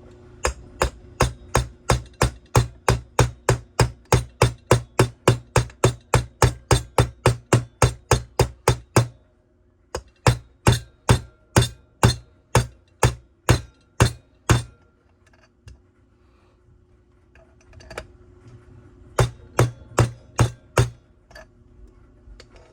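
A hammer taps on stacked metal sleeves, driving a crankshaft seal into the crankcase of a Stihl TS 400 cut-off saw until it sits just below the surface. The taps come fast and even, about three or four a second, in a long run and a second shorter run, then a few more near the end.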